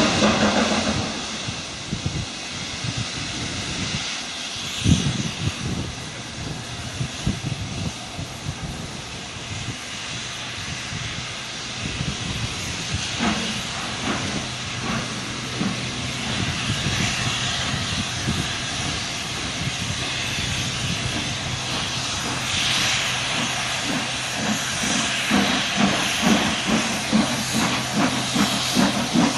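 Pair of LMS Stanier Black 5 4-6-0 steam locomotives passing, with a steady hiss of escaping steam and scattered knocks. A regular beat comes in over the last few seconds.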